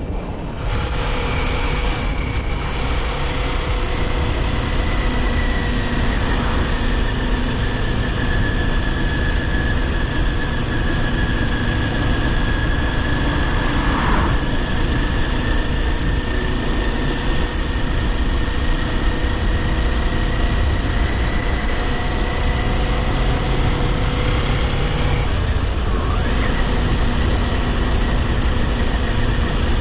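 Kawasaki Ninja 400's parallel-twin engine running steadily on the move, over wind and road rush. The engine note dips briefly right at the start, then holds with only slow changes in pitch.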